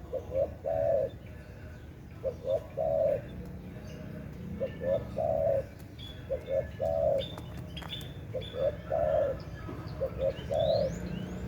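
Spotted dove cooing its song over and over: short coo notes followed by a longer, wavering coo, the phrase repeated about every two seconds, six times. Faint high chirps of other small birds come in now and then.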